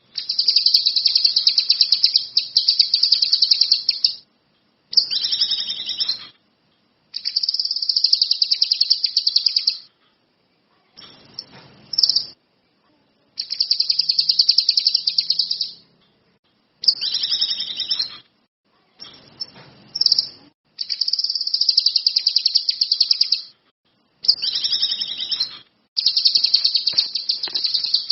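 A songbird, the kinoi of a birdkeepers' tutor recording, singing rapid, high-pitched trilled phrases over and over. There are about ten phrases of one to four seconds each, broken by short gaps of dead silence.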